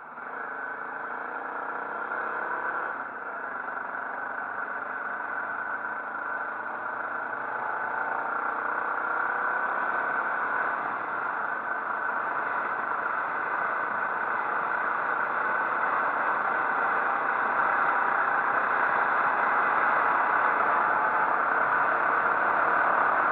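Motorcycle engine running on the move, over a steady rushing noise; it climbs slowly in pitch and grows gradually louder.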